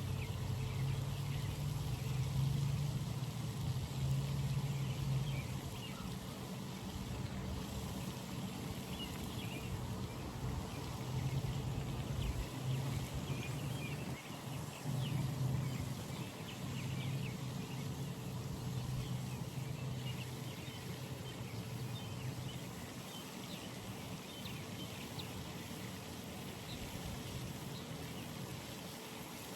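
Outdoor morning ambience: a distant engine drone that swells and eases, then fades after about twenty seconds, under many small high bird chirps.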